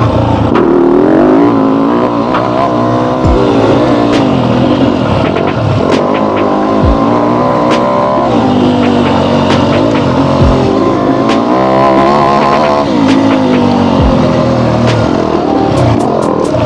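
Yamaha YZ250F four-stroke single-cylinder dirt bike engine revving up and down over and over as the bike accelerates and backs off through turns. Scattered sharp clicks and knocks sound throughout.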